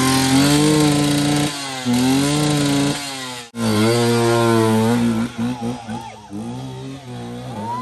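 Trail motorcycle engine revving hard at high throttle. It briefly drops out about a second and a half in and again near three and a half seconds, then falls off and gets weaker after about five seconds.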